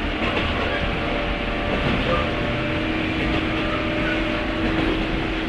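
Interior running noise of a 103-series electric train motor car (MoHa 102) with MT55 traction motors: a steady low rumble with a faint even motor hum.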